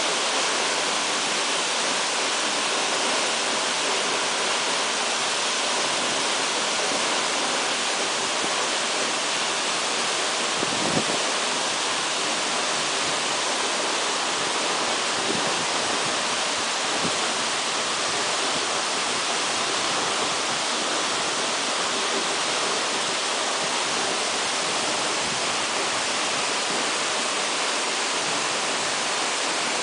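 Waterfall rushing: a loud, steady hiss of falling water. A brief low thump comes about a third of the way through.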